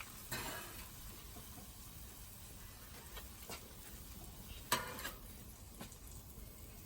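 Food sizzling faintly on a flat-top griddle, with a few light clicks of a utensil and one sharp knock about three-quarters through.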